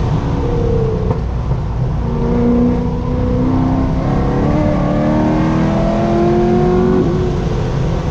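Corvette C6 Z06's 7.0-litre LS7 V8 pulling hard on track, its note climbing steadily and dropping back at gear changes, the last about seven seconds in.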